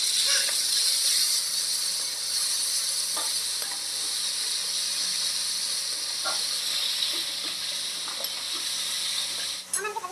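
Chopped onions and sauce sizzling steadily in a hot metal wok, with a spatula now and then scraping and tapping the pan as they are stirred.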